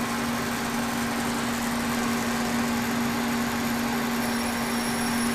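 Kearney & Trecker 2HL milling machine, rigged as a lathe, running with a steady, unchanging hum over mechanical noise.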